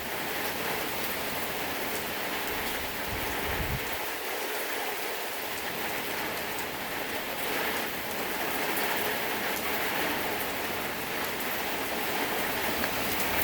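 Heavy thunderstorm rain and gusting wind, a steady hiss that swells a little now and then, with a brief low rumble about three seconds in.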